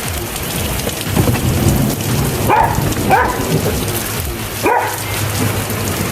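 Steady heavy rain, with a dog barking three short times partway through.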